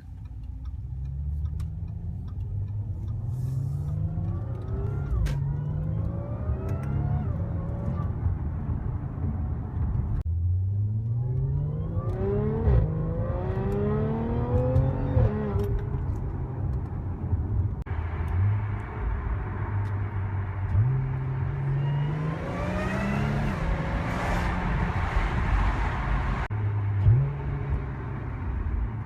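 B8 Audi S4's supercharged 3.0-litre V6 through an HMS valved exhaust, accelerating hard in several runs: the pitch climbs and drops back at each upshift, with a stretch of steadier running in between.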